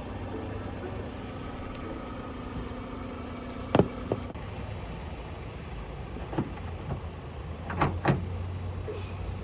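Jump-started car engine idling steadily to recharge a low battery, with a few sharp clicks and knocks: a pair a little before halfway and several more in the second half.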